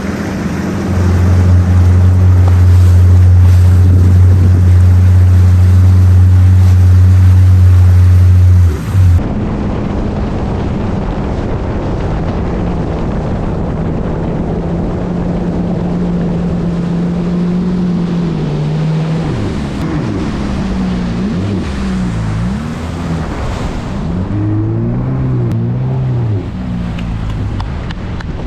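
Jet ski engine running at speed over wind and water spray noise. It holds a loud, steady drone for about nine seconds, then drops abruptly to a quieter steady note. Near the end the pitch rises and falls repeatedly as the throttle is worked.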